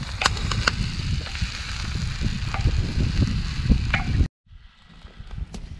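Vegetables and herbs sizzling in hot oil in a pan, with a few sharp clicks of a utensil; about four seconds in the sizzle cuts off abruptly and a much quieter background follows.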